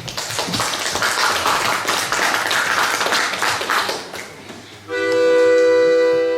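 Audience applauding, then about five seconds in an accordion sounds one loud, long held chord, the opening of a folk song accompaniment.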